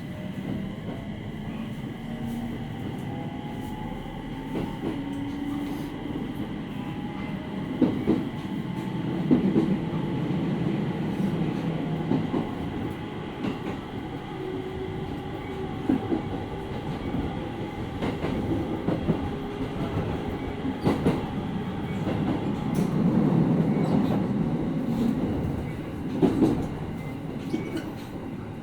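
Inside a JR East 701 series 5500-subseries electric train car under way, with steady running noise. In the first several seconds a motor whine rises in pitch as the train gathers speed. The wheels click over rail joints now and then, in single clicks and pairs.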